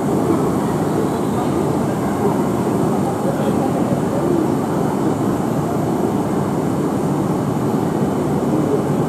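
Steady, even whirring hum of stationary E5 series Shinkansen trainsets' running equipment, with faint voices in the background.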